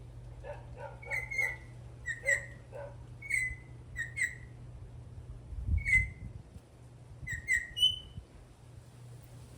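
Venezuelan troupial calling: a series of short, sharp whistled notes, some single and some in quick pairs, about one a second.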